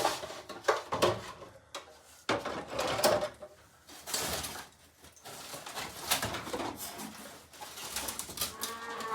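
Irregular knocks, clatter and scraping as pieces are handled and moved by hand.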